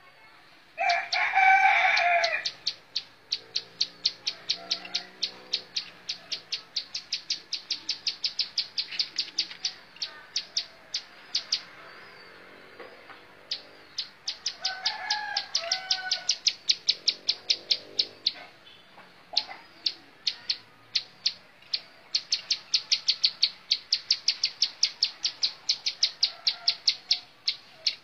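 Ciblek sawah (a prinia) singing long trains of sharp, high repeated notes at about five a second, pausing briefly near the middle. A louder, lower call with several stacked tones cuts in about a second in and again around the middle.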